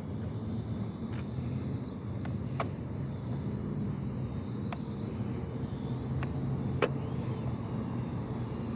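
Wind buffeting the microphone as a steady low rumble, with the faint, wavering high whine of a small quadcopter drone's propellers fighting the gusts. A few sharp clicks come through.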